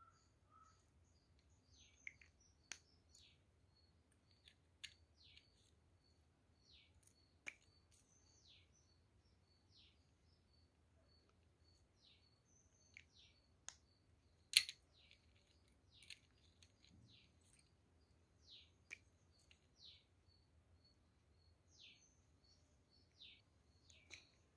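Faint, repeated short chirps of small birds, high-pitched and falling, with a few sharp clicks as lipstick tubes and caps are handled, the loudest click about two-thirds of the way through.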